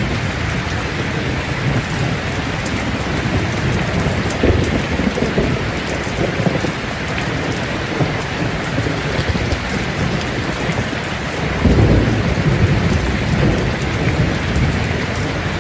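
Steady heavy rain with rolling thunder: a low rumble swells about four seconds in, and a louder one comes about twelve seconds in.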